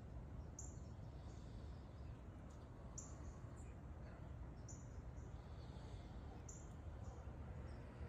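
A small bird gives short, high-pitched chirps every second or two, faint over a steady low outdoor rumble.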